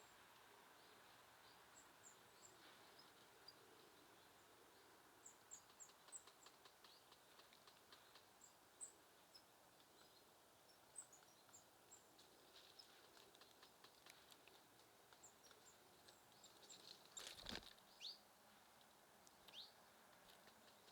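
Faint, scattered high-pitched chirps and calls of small songbirds, with light taps and ticks throughout and one sharper knock about two-thirds of the way in.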